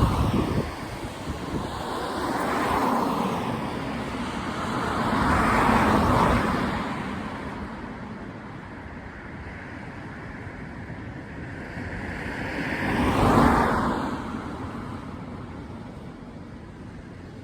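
Road traffic: vehicles pass one after another, about three, six and thirteen seconds in, each swelling as it approaches and fading away, over a low steady rumble.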